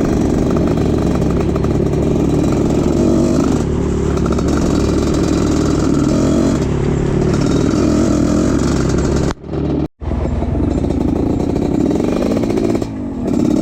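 Trail motorcycle engine running steadily under way, its pitch shifting a little with the throttle. The sound cuts out abruptly for a moment about nine and a half seconds in, then resumes.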